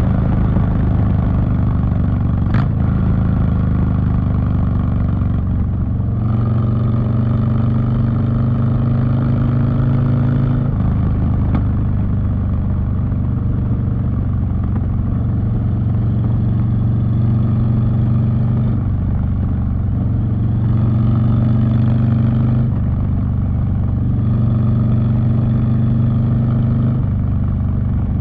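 Harley-Davidson Street Bob V-twin running through a TBR 2-into-1 exhaust while riding, the engine note stepping up and down to new steady pitches several times as the throttle and speed change. A sharp click about two and a half seconds in.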